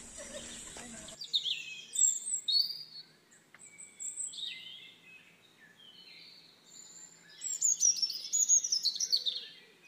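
Birdsong: quick high chirps and short falling whistled notes in three bursts with quiet gaps between, after about a second of outdoor background noise.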